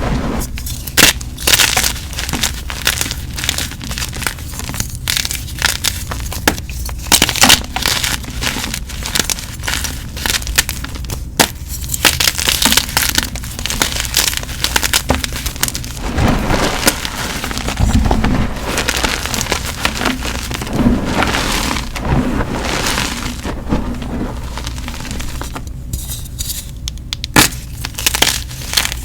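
Blocks of gym chalk being crushed and crumbled by hand: a run of sharp, irregular crunches and cracks, with softer, powdery crumbling in between.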